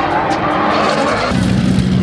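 Drift car's engine running hard with a rushing higher noise, then settling to a steady lower note about a second and a half in.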